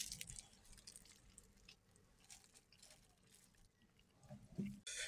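Faint chewing of a mouthful of bread: soft wet clicks and squishes, with a brief low hum about four and a half seconds in.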